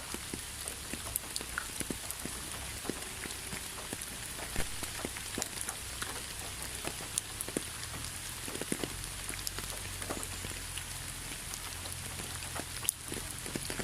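Steady rain with many separate drops ticking irregularly on a surface over a constant hiss and a low steady rumble.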